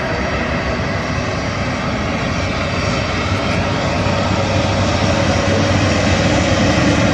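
Airbus A400M Atlas running its four turboprop engines, a steady loud drone with a low hum, growing gradually louder.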